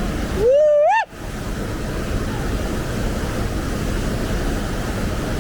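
Steady rush of a waterfall and rapids pouring over rocks. About half a second in, a man gives one rising "woo" whoop.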